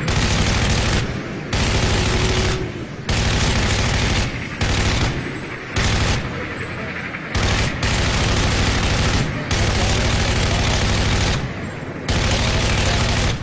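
Close automatic gunfire in long sustained bursts, about eight of them, each one to two seconds long with short pauses between.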